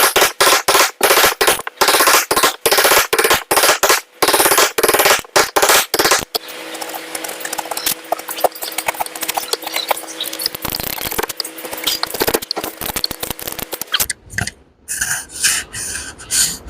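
A hand tool working wood with fast, rattling rasping strokes for about six seconds, then a steadier scraping dotted with small clicks, and a few separate strokes near the end.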